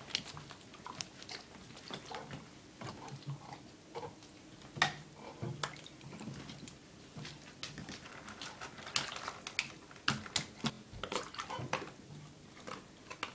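Close, loud chewing: irregular crunches and smacks of food being eaten, a few a second. Small splashes and clinks of water come from a stainless steel bowl being dabbled in by hand.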